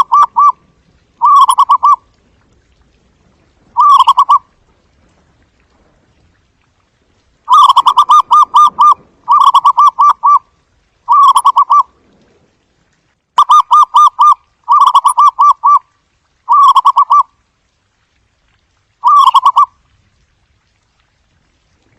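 Zebra dove calling: bouts of rapid staccato cooing notes, several to a second-long bout, repeated with short pauses and longer gaps between them.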